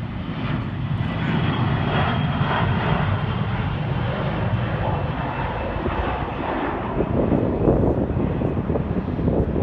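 Airliner engines at takeoff power: a loud, steady rumble with a faint high whine as the plane accelerates away. It grows a little louder about a second in.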